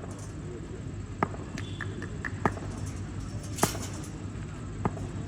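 A series of sharp knocks, one about every second, over a steady low hum.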